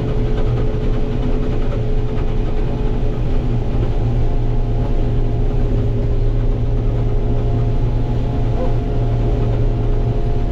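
Combine harvester running steadily, its engine and machinery giving an even, unbroken drone with a constant hum.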